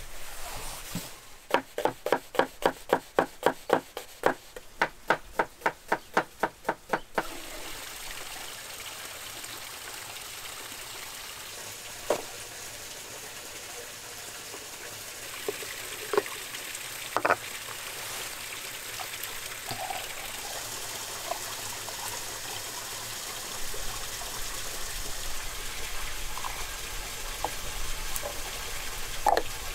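A quick run of sharp knocks, about four a second for some six seconds, then food sizzling steadily in a hot pan, with a few scattered clicks and ticks.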